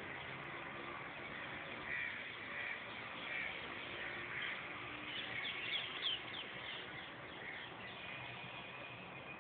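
Birds calling over a steady hiss: a few separate calls about two to three and a half seconds in, then a quick run of short chirps around five to six and a half seconds in.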